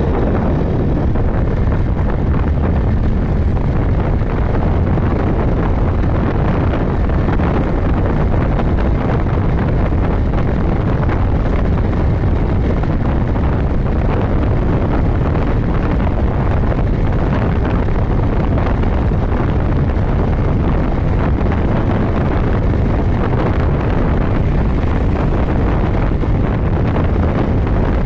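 Steady wind rush on the microphone over a motorcycle running at constant road speed, with no change in pitch or sudden sounds.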